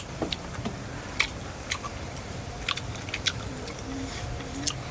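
A person chewing and biting food, with irregular sharp clicks and crunches over a steady low hum.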